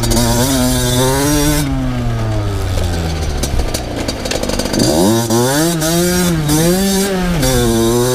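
Two-stroke motocross bike being ridden, its engine revving up and down as the rider works the throttle. The revs fall away about three seconds in, then the engine revs hard again near the five-second mark.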